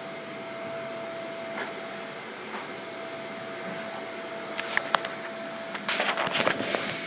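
Vacuum cleaner running steadily with a faint constant whine. Scattered clicks start past halfway, and a dense burst of clattering knocks comes near the end.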